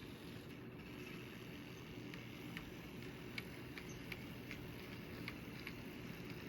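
N scale model train running on its track: a steady low hum with light clicks about twice a second.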